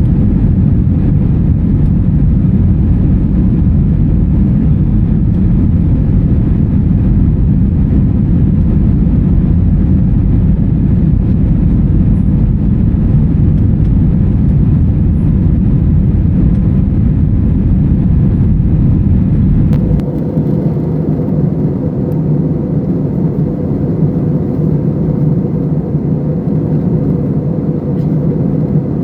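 Steady, loud airliner cabin noise from jet engines and airflow, a deep rumbling roar. About 20 seconds in, the sound changes abruptly to a slightly quieter, less bassy roar with a steady hum.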